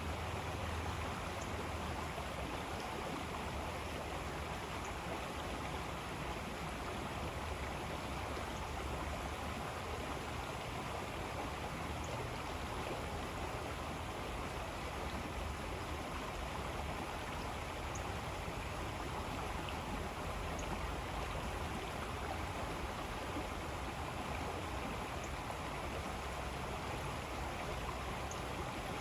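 River water flowing steadily, an even unbroken rush with no change in level. A few faint, very short high-pitched peeps sound now and then above it.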